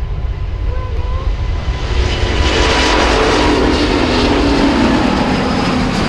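Airliner passing close by the runway: its engine noise swells over the first couple of seconds and then stays loud, with a tone that drops in pitch as it goes past.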